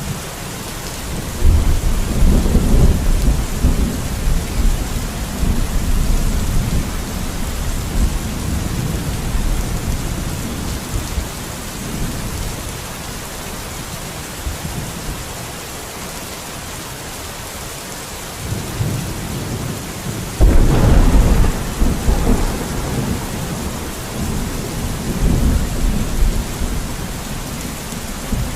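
Steady rain with two rolls of thunder: a long low rumble that starts about a second and a half in and slowly dies away, and a second, sharper clap about twenty seconds in that rumbles on to the end.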